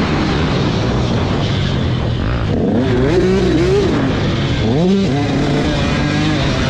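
Several motocross bike engines revving hard as they race past, their pitch rising and falling with throttle and gear changes, with a sharp rise about three seconds in and again near five seconds.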